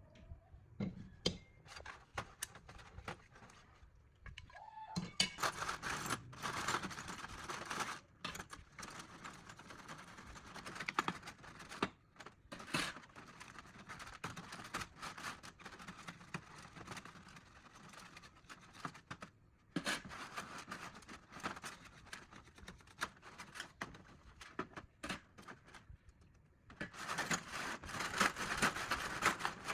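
Hand work on metal parts: irregular sharp clicks and knocks of tools on metal, with stretches of scraping or rubbing, strongest for several seconds about a fifth of the way in and again near the end.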